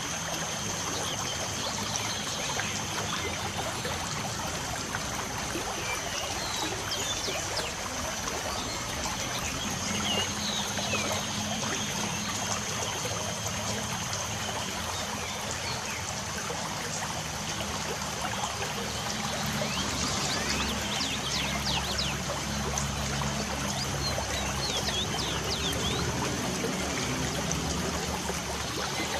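Steady trickle and patter of water from light rain, with short bird chirps now and then.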